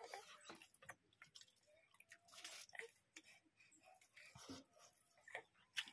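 Faint chewing of chicken curry and rice eaten by hand, with scattered soft clicks.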